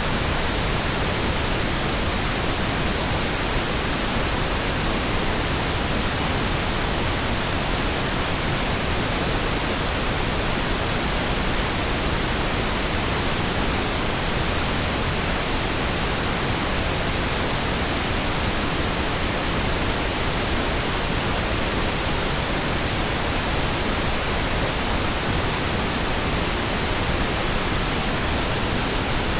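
Steady electronically generated pink noise: an even, unchanging hiss.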